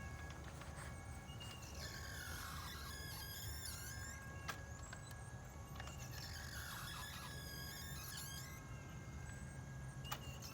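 Champion Wheelie Bird 2.0 clay thrower's wobbler running over a steady motor hum, with bursts of high squeaking and gliding squeals that repeat every three to four seconds and a couple of sharp clicks. This is the noise and jerking of a faulty wobbler, which the owner puts down to a loose upper rack.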